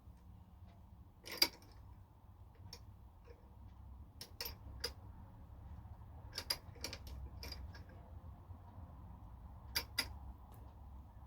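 About a dozen irregular, sharp clicks and clinks of small metal objects being handled, the loudest about a second and a half in, over a low steady hum.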